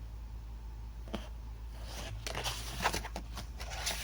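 Paper rustling and handling as a picture book's page is turned, a few soft scuffs and crinkles over a low steady hum.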